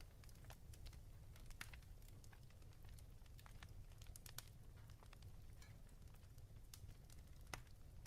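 Faint fireplace crackle: irregular sharp pops and snaps over a low, steady rumble.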